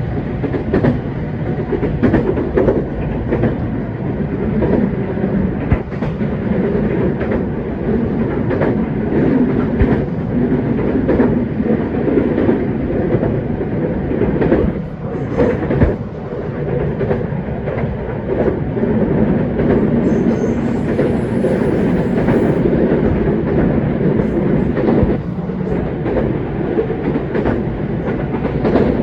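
JR West 227 series electric train running at speed, heard from inside the carriage: a steady rumble of wheels on rail with irregular clicks from the rail joints, while the train climbs a steep grade.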